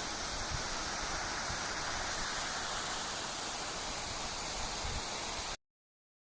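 Steady rushing noise of falling water, even and unbroken, that cuts off abruptly into silence about five and a half seconds in.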